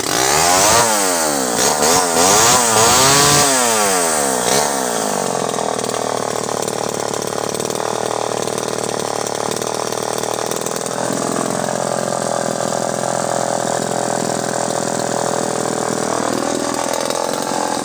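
Vintage Pioneer 1200 58cc two-stroke chainsaw, just restarted, revved up and down several times, then idling steadily; it is running well.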